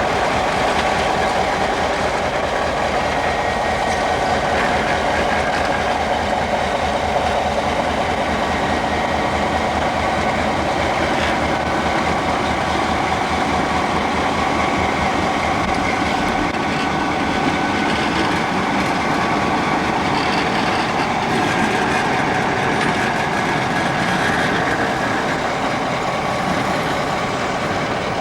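A train running steadily, a continuous loud rumble of rolling railcars and engine with no break.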